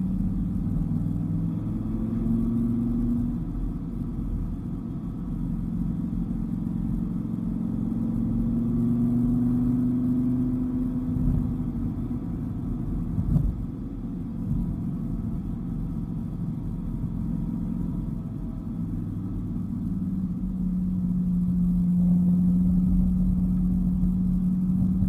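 Dodge Viper GTS V10 engine running while driving, its low note rising and falling with the throttle and holding steady near the end, over road rumble. There is one short sharp tap about 13 seconds in.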